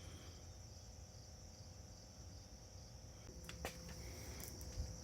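Faint, steady high-pitched trilling of insects, with a few light clicks about three and a half seconds in and again near the end.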